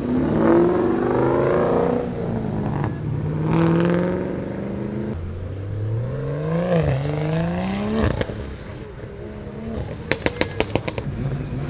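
A car's engine revving up several times, its pitch climbing, dipping once at a gear change about seven seconds in, then climbing again before the driver lifts off. Near the end comes a quick string of about eight sharp cracks.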